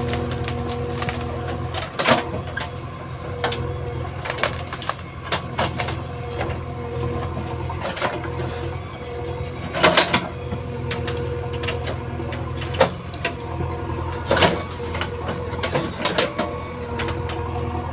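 JCB 3DX backhoe loader's diesel engine running steadily, with many sharp clanks and knocks from the machine at work and three much louder bangs spread through.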